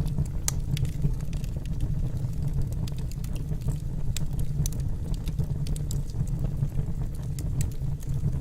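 Wood logs burning in a fireplace: a steady low rumble with irregular sharp crackles and pops from the burning wood.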